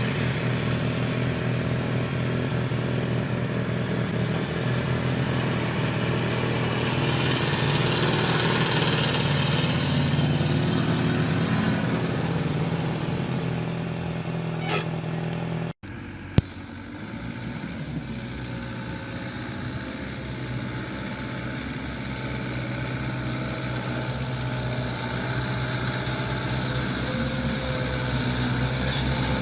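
Heavy vehicle engine running steadily at a low pitch. About halfway through the sound cuts abruptly to another engine, running quieter, with a single sharp click just after the cut.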